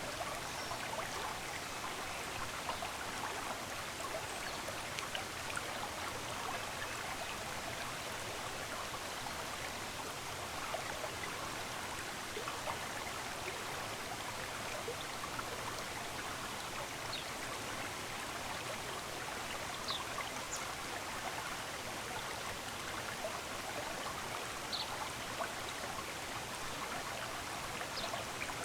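Running water of a stream, a steady rushing, with a few faint, short high bird chirps in the second half.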